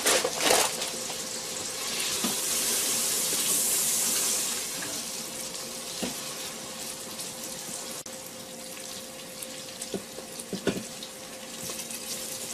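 Onions and tomatoes sizzling as they fry in an Instant Pot electric pressure cooker on sauté, stirred with a spoon that taps against the pot now and then. The sizzle swells louder about two seconds in for a couple of seconds.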